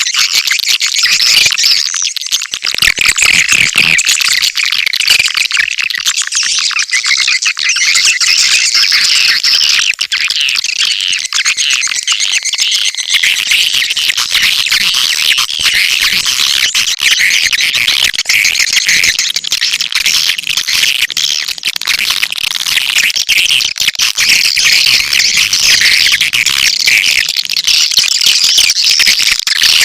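Swiftlet calling-sound (lure) recording: a dense, continuous chatter of many swiftlet chirps and twitters, shifting slightly in texture about thirteen seconds in.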